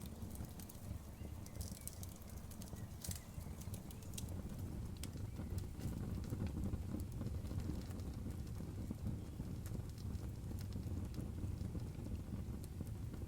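Outdoor wood fire crackling: sparse sharp pops and snaps over a steady low rumble. The pops come thickest between about one and a half and three seconds in.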